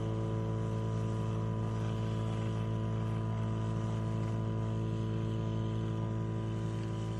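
A steady electric hum with a stack of even overtones, unchanging throughout.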